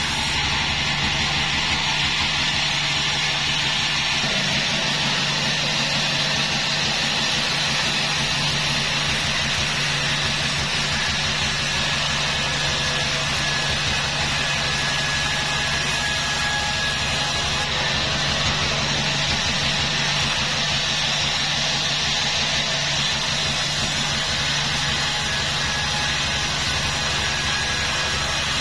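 Sawmill machinery running steadily: a constant engine-like drone with a low hum and a hiss, unchanging throughout.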